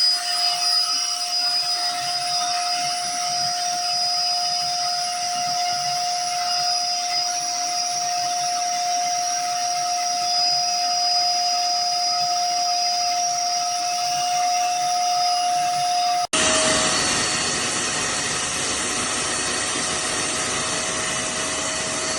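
Industrial wet-and-dry vacuum cleaner running steadily: a whine over rushing air. About three quarters of the way through it cuts off suddenly to another recording of a vacuum running, with a fuller, lower sound.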